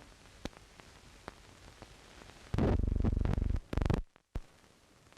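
Run-out noise of an old film soundtrack: a faint hiss with scattered clicks and pops. A loud low buzz starts about halfway through and lasts about a second, comes back briefly, then the sound cuts out for a moment.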